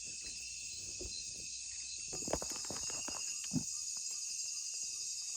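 Night-time rainforest insect chorus, a steady high-pitched drone of crickets and other insects, with a few short knocks about two and a half and three and a half seconds in.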